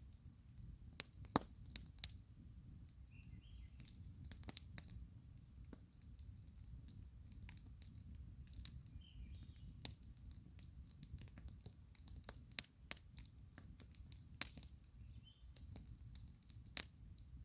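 Campfire crackling, with irregular sharp snaps and pops over a low steady rumble. The loudest snap comes about a second and a half in.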